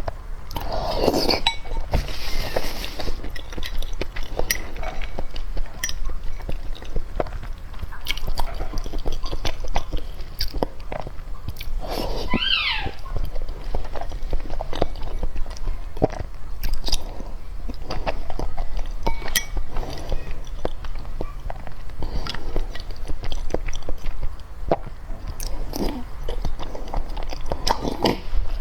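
Close-up, wet chewing and biting of seafood, with crunches and many short clicks. A brief squeaky sound that slides in pitch comes about halfway through.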